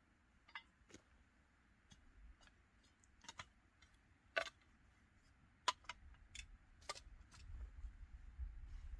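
Sparse, irregular light clicks and knocks over a quiet background, the sharpest about halfway through, with a low rumble building near the end.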